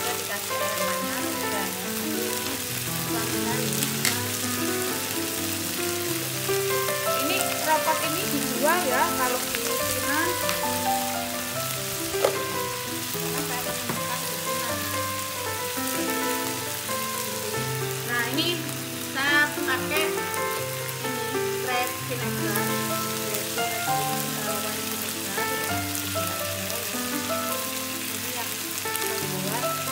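Purslane and chillies sizzling as they stir-fry in a frying pan, stirred now and then with a metal spoon. Background music with a melody plays over the sizzle.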